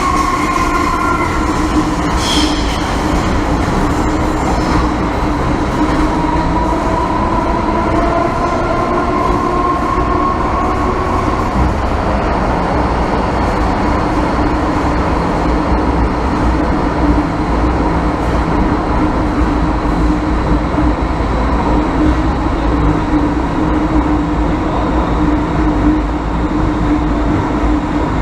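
MTR M-Train (EMU) running at speed, heard from inside the passenger car: steady rolling rumble with a constant low hum. A faint whine shifts in pitch during the first ten seconds or so.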